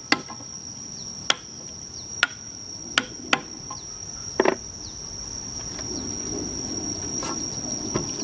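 Sharp knocks of hand tool work, hammering or chopping, at uneven intervals, thinning out after about four and a half seconds and followed by rustling. Under them runs a continuous high insect trill, like a cricket.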